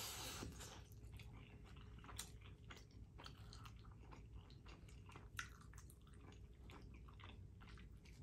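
A person chewing a mouthful of soft macaroni and cheese, faint, with many small wet mouth clicks and smacks and a couple of slightly louder ones.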